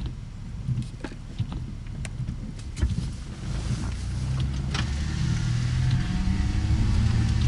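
Car engine and road noise, a low hum that grows louder about halfway through, with scattered clicks and knocks.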